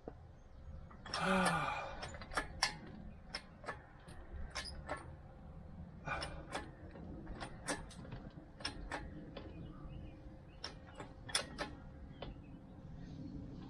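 Irregular sharp clicks and light knocks, over a dozen spread unevenly, typical of metal parts being shifted during a lift in a workshop. A brief low voice-like grunt sounds about a second in.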